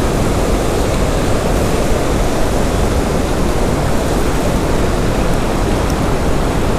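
Loud, steady rushing of river rapids in a strong current.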